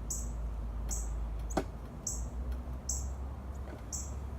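Baby birds cheeping: short, very high-pitched chirps repeating about every two-thirds of a second, over a steady low rumble, with one sharp click about a second and a half in.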